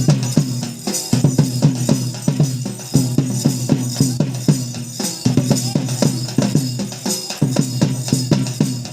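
Tribal dance music: drums beaten in a fast, steady rhythm, with a sustained low tone beneath that drops out briefly a couple of times.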